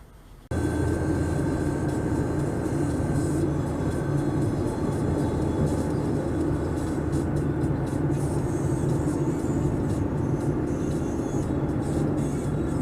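A car driving: steady engine and road noise that starts abruptly about half a second in.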